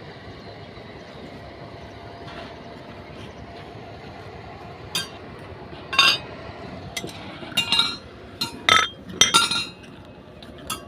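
A run of sharp, irregular clinks of hard objects knocking together, starting about five seconds in and coming in quick clusters, over a steady faint hum.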